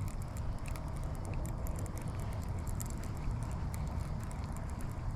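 Rain pattering on the water and the kayak: many small irregular taps over a steady low rumble.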